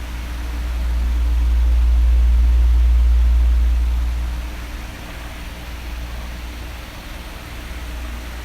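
Electric fan running steadily, a broad whoosh of moving air over a low motor hum. About a second in, a deep rumble of air swells for a few seconds and then fades back.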